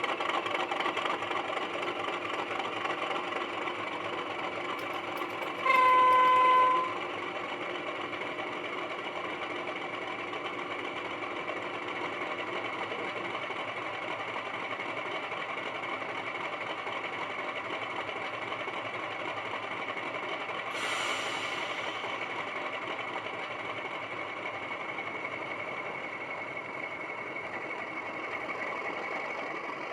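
Sound-fitted Class 31 model locomotive playing its English Electric diesel engine sound through the model's small speaker, running steadily, with one loud horn blast of about a second around six seconds in and a short hiss of air about twenty seconds in.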